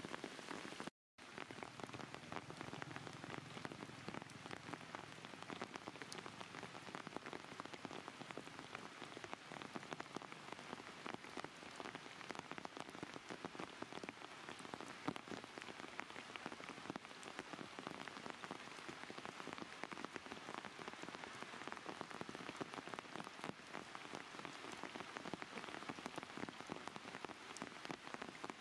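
Steady rain falling, with many separate drops heard as small ticks over an even hiss; the sound cuts out completely for a moment about a second in.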